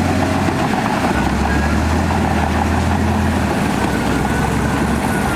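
Komatsu D58E crawler bulldozer's diesel engine running steadily and loud, its deep drone shifting in pitch about a second in and again about three and a half seconds in.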